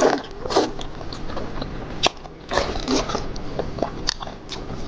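Close-miked biting and chewing of seafood, with irregular wet mouth clicks and smacks and a few louder bites, one sharp click about two seconds in.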